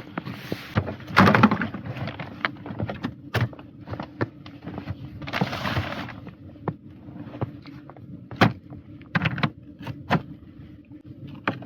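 Irregular knocks, clicks and clatter of things being handled, with two short bursts of rustling or scraping, over a steady low hum.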